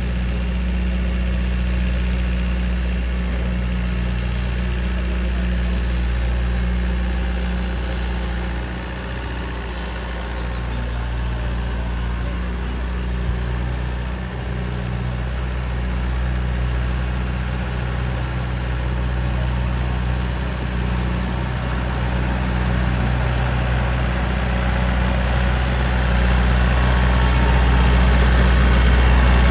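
Massey Ferguson 2630 tractor's 65 hp four-cylinder diesel engine running steadily while driving an 8-foot rotavator. Its level dips briefly twice and grows louder near the end.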